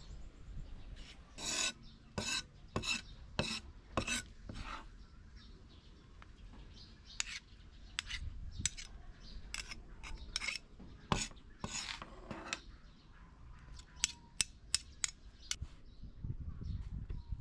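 Hand scraping during food preparation: a run of short rasping strokes about every 0.6 s, then scattered strokes and a quick cluster of sharp clicks near the end.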